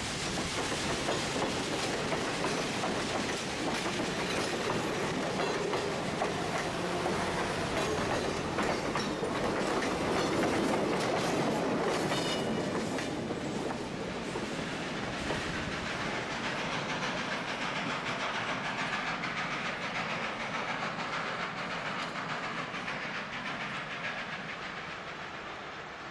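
Railroad passenger coaches rolling past at close range, their steel wheels clicking steadily over the rail joints. The sound is loudest around the middle and then eases to a softer rumble.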